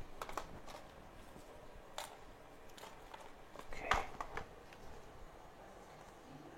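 A few faint, sharp clicks and taps of small hand tools on a workbench, the loudest about four seconds in.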